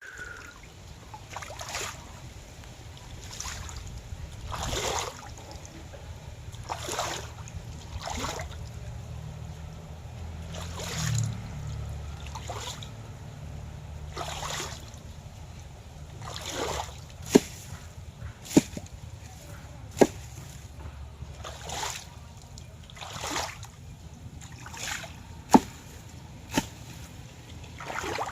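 Water splashing and sloshing in repeated swells every second or two, over a low steady rumble. A few sharp clicks come in the second half.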